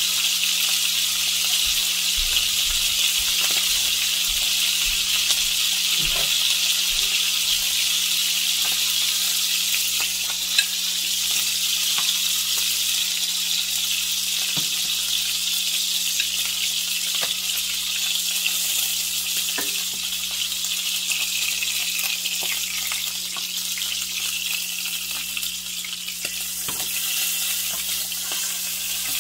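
Bacon-wrapped steak bites sizzling steadily in hot fat in a frying pan, with occasional light clicks of metal tongs as the pieces are turned and lifted.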